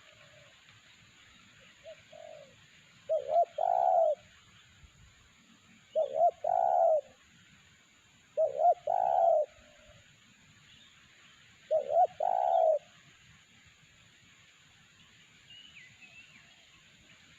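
Spotted dove (tekukur) cooing: four phrases about three seconds apart, each two short notes followed by a longer, deeper-held coo, with a softer partial call early on. Faint chirps of another small bird near the end.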